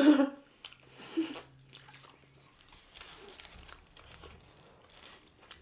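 Faint biting and chewing: two people eating soft chicken roti wraps.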